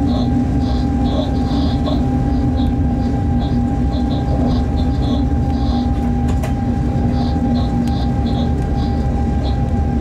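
Freight train running, heard from inside the locomotive cab: a steady rumble with a constant hum, and short high chirps that come and go.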